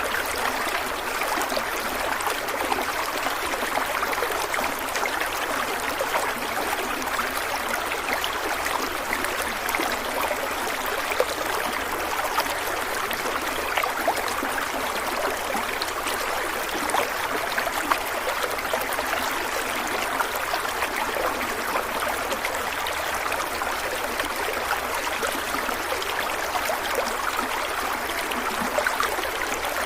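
Flowing stream water running steadily over rocks, an even rush with small splashes and trickles throughout.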